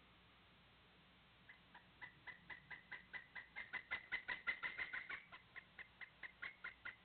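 Pileated woodpecker calling: a long run of short, loud notes at about four a second that begins a second and a half in, builds to its loudest in the middle and then eases off.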